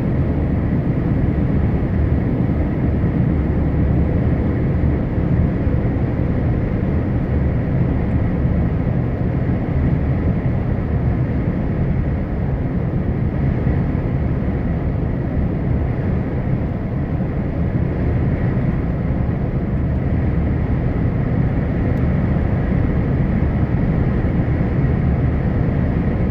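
Scania R580's 16.4-litre V8 diesel running under way, a steady low rumble without a break.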